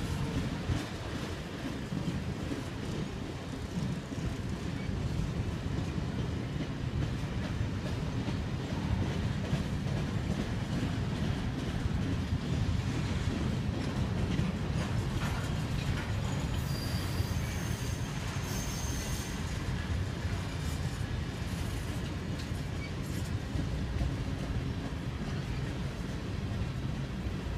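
Covered hopper grain cars of a Canadian Pacific freight train rolling past on steel rails: a steady low rumble of wheels on track, with a brief faint high squeal from the wheels about two-thirds of the way through.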